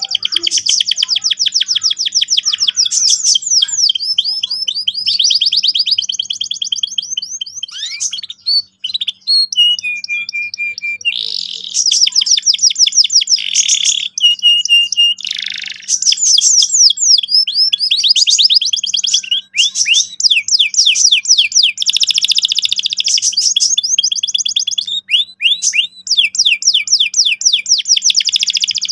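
Canary singing continuously in fast rolling trills and chirps, with a few brief breaks between phrases.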